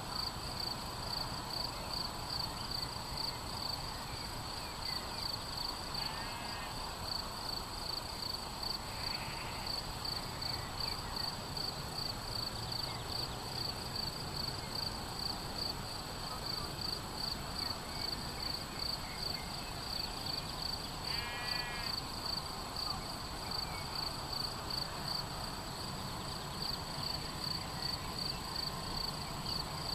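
Field crickets chirping in a steady, evenly pulsed high-pitched rhythm, with a bird giving short trilled calls twice, about six and twenty-one seconds in.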